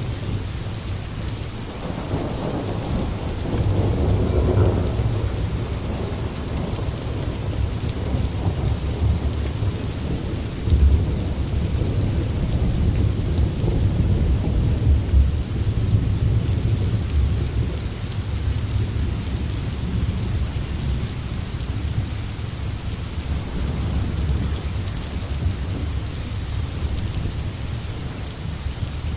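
Steady heavy rain falling, with a deep low rumble underneath that swells about four seconds in and again near the middle.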